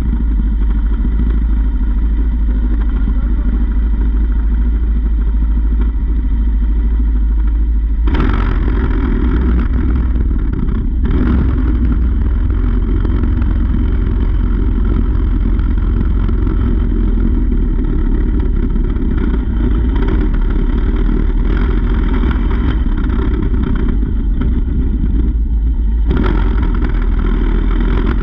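Mini bike's small engine running as it is ridden, with a heavy low rumble of wind on the camera microphone; the engine note grows louder about eight seconds in and again near the end.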